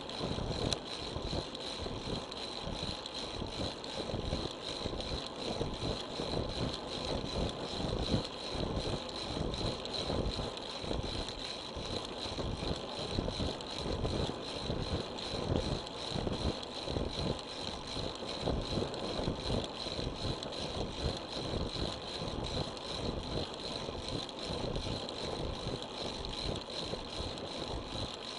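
Continuous wind buffeting on an action camera's microphone while riding a road bike, mixed with tyre and road noise. A thin, steady high tone runs under it.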